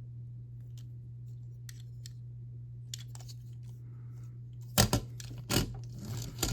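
Plastic LEGO pieces and a small brick-built car being handled, with scattered faint clicks and then a few sharp, louder clacks near the end as a model is put down or picked up. A steady low electrical hum sits underneath.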